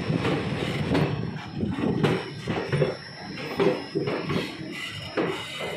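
Passenger train coach rattling and clanking as it rolls through a station, with irregular knocks and some squeaks.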